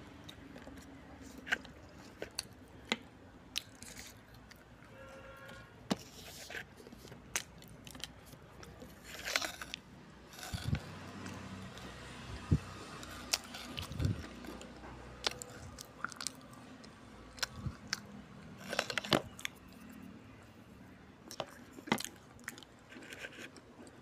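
Close-up chewing and crunching of dry baked-clay crumbles and red clay paste, in irregular sharp crunches with a few quicker clusters.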